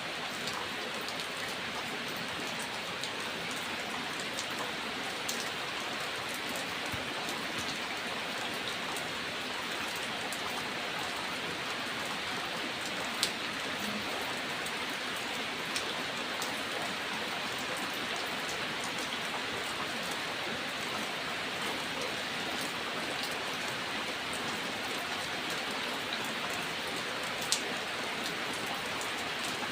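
Steady rain falling, an even hiss with a few sharper single drop taps, the two loudest about halfway through and near the end.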